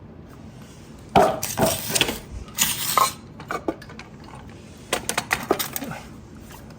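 Metal tools clinking and clattering as they are handled, in two bursts of sharp irregular clinks with a pause between.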